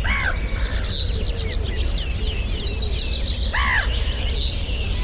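Several birds calling together: a busy chorus of high chirps and whistles, with two louder calls, one at the start and one about three and a half seconds in, over a steady low rumble.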